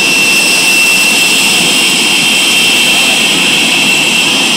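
Pratt & Whitney JT8D low-bypass turbofan running steadily on a ground test, a loud rush of exhaust noise with a steady high-pitched whine over it.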